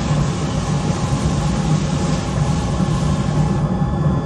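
Hot Schott Robax fire-resistant glass plunged into water, hissing and sizzling for about three and a half seconds before it stops. The glass stays intact. A steady low rumble runs underneath.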